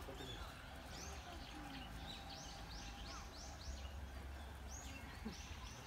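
A small bird chirping a quick run of repeated high notes, each falling in pitch, over a steady low background hum.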